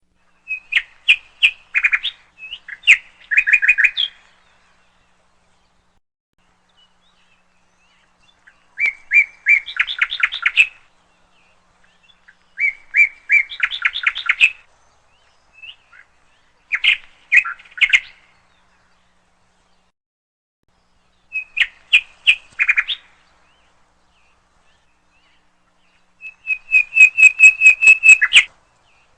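A bird calling in short phrases of quick, high chirping notes, a phrase every few seconds with silent gaps between; the longest, most even run of notes comes near the end.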